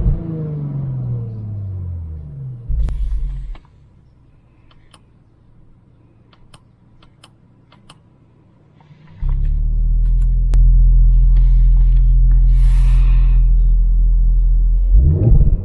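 2017 Audi S5's V6 engine on its stock exhaust: revs falling back to idle, then a short blip of the throttle. About three and a half seconds in the engine sound stops, leaving only faint scattered clicks. About nine seconds in it returns abruptly as a loud, steady, deep idle.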